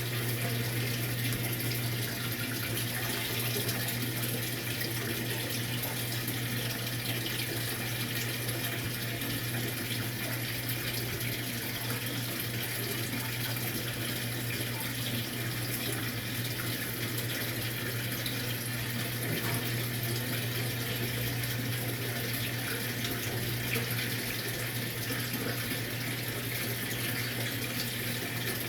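Maytag MVWX655DW1 top-load washing machine running its tub clean cycle: a steady rush of water over a constant low hum.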